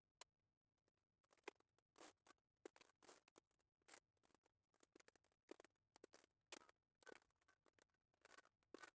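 Faint, irregular clicks and scrapes that come more often after about a second.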